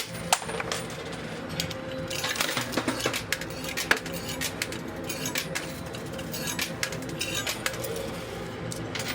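Quarters dropping into a coin pusher arcade machine and clinking against the coins on its sliding shelves, many sharp metallic clinks, the loudest just after the start and about four seconds in, over the machine's steady hum.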